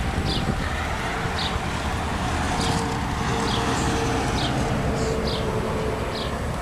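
Steady traffic noise with a low rumble that swells in the middle. Over it, a bird gives a short high chirp about once a second.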